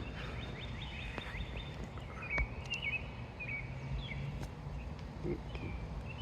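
Small birds chirping on and off, with short high calls scattered throughout, over a steady low rumble of wind on the microphone. A sharp click comes about two and a half seconds in.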